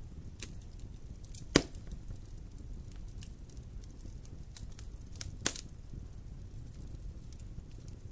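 Wood fire burning in a fireplace: a steady low rumble with scattered small crackles, and a sharp loud pop about one and a half seconds in, with a weaker one about five and a half seconds in.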